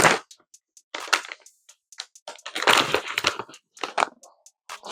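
Snack bag crinkling and rustling as it is opened, in irregular crackly bursts, busiest around the middle.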